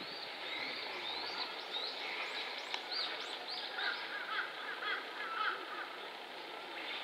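Wild songbirds chirping: many short, quick rising and falling notes, several birds overlapping, with a fast run of lower chirps about four to five seconds in, over a steady outdoor hiss.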